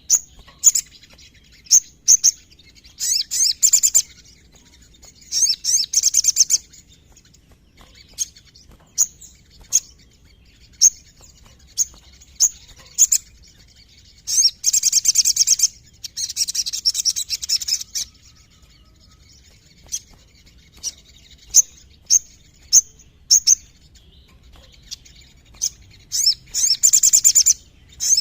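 A sogon (sunbird) singing: sharp, high single chirps broken up by rapid rattling trills of one to three seconds each. The longest trill falls around the middle.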